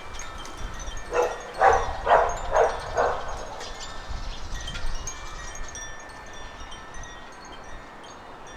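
Garden birds chirping, with many short, high, thin notes throughout. Between about one and three seconds in, one bird gives a run of five loud, harsh notes about two a second. A low wind rumble sits underneath.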